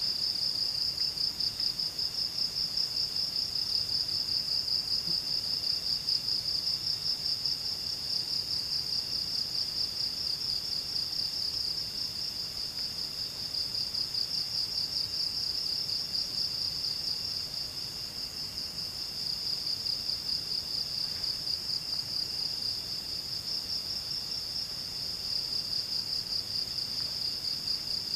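Forest insects, crickets or katydids, trilling: one high, continuous trill with a fast pulse, and a second, lower trill that starts and stops every few seconds.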